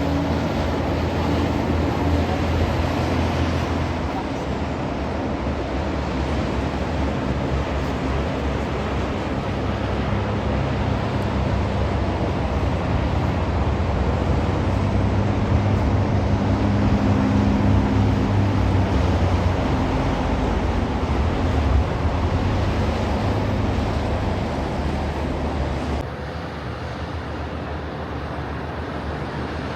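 Heavy trucks passing along a road: diesel engines running with tyre and traffic noise, swelling louder around the middle. The sound drops abruptly to a quieter traffic background near the end.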